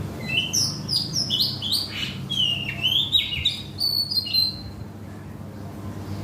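A songbird singing a rapid run of short whistled chirps for about four seconds, then falling silent, over a low steady hum.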